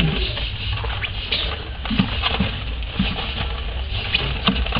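Month-old lovebird chicks stirring in sawdust bedding: scattered light scratches and brief high calls over a steady low hum.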